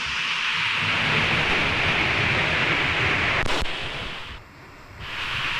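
Steady rushing noise that drops away for about half a second a little over four seconds in, then returns.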